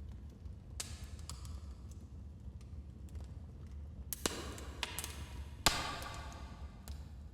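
Wood fire in a fireplace crackling, with scattered small pops over a low steady rumble. Two louder snaps come about four and five and a half seconds in, the second the loudest.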